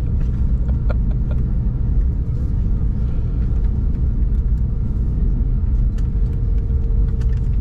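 Steady low rumble inside the passenger cabin of an Embraer 190-E2 jet, from its engines and air noise. A faint steady hum joins about six seconds in, with a few light clicks.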